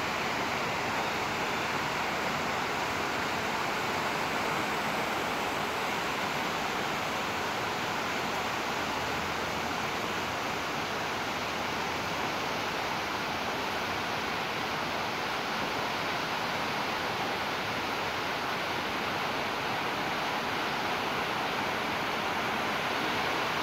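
Steady rain falling: an even hiss that holds at one level, with no single drops or other sounds standing out.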